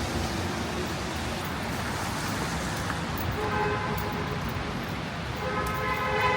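Steady rushing traffic noise on a city street, with a car horn sounding twice: a short honk about three and a half seconds in and a longer one near the end.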